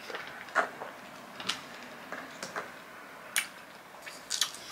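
Close-miked chewing of a fresh strawberry: a string of short, wet mouth clicks and smacks, about one a second.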